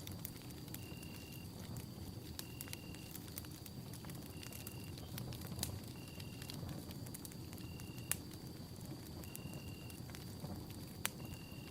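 Campfire burning: a steady low rush of flames with scattered sharp pops and crackles, the strongest about halfway through, two-thirds in and near the end. Behind it a short high tone repeats about every second and a half over a faint steady high tone.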